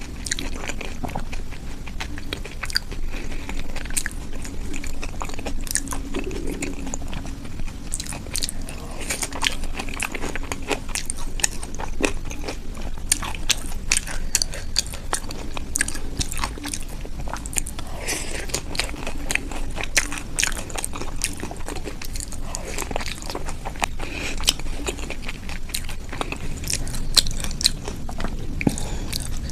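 A person eating close to the microphone: chewing and biting with crunching, in a steady run of irregular small clicks.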